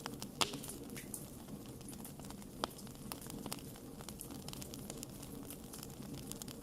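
Burning wood fire crackling, with irregular sharp pops over a steady low rush; the loudest pop comes about half a second in and another near the middle.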